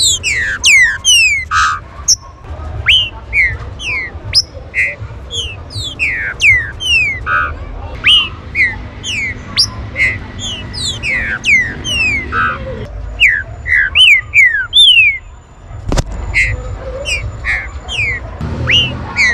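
Green-winged saltators (trinca-ferro) calling and singing together: a dense stream of short, sharply falling whistled notes from several birds overlapping, over a steady low rumble. There is a single sharp click near the end.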